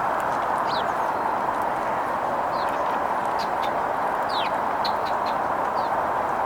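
House sparrows giving scattered short, high chirps, several falling in pitch, over a steady rushing background noise.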